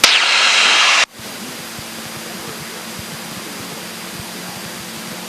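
A loud burst of radio static for about the first second, cutting off sharply, then the steady drone of a Cessna 172K's four-cylinder Lycoming engine cruising at about 2,300 RPM, heard through the cockpit intercom.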